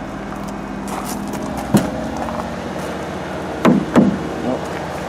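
A steady, even-pitched motor hum, with three sharp knocks: one a little under two seconds in and two close together near the end.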